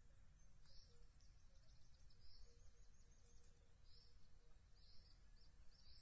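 Faint high-pitched bird chirps repeated every second or so, with a quick run of ticking notes about two seconds in, over a low rumbling background.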